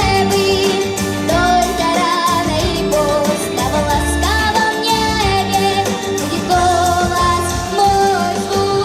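Pop song: a girl's voice sings the melody over a full backing track with a steady beat.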